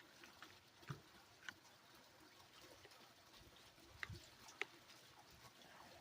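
Near silence, broken by four faint, short clicks and knocks spread through it.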